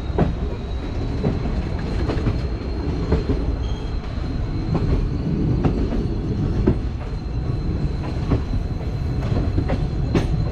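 Passenger train running on rails: a steady rumble with irregular clacks and knocks from the wheels over rail joints and points, and a faint steady high whine.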